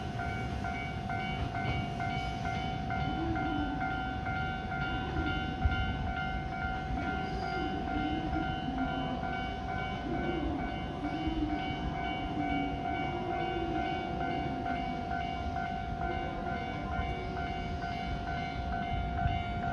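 Shinano Railway 115 series electric train running away from the station platform, with a steady, rapidly pulsing high tone sounding over it throughout.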